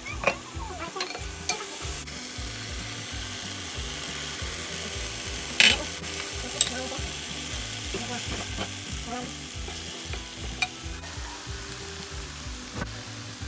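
Eggplant with onions and peppers frying and sizzling in a stainless steel pot while a wooden spatula stirs it, with scattered knocks of the spatula against the pot, the loudest about five and a half seconds in.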